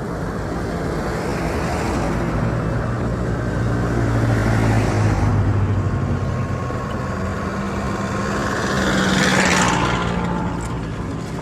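Road traffic: motor vehicles driving past one after another, each swelling and fading with a low engine hum, the loudest pass about nine seconds in.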